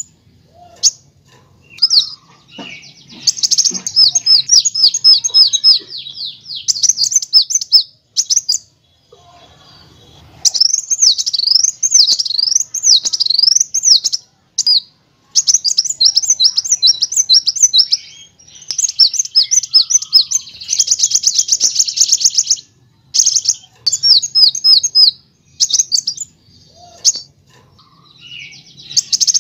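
Kolibri wulung, a sunbird, singing loudly in high, rapid bursts of chattering notes and trills, broken by short pauses. About a third of the way in the song turns to quick sweeping up-and-down notes, and past the middle to a fast buzzy rolling trill.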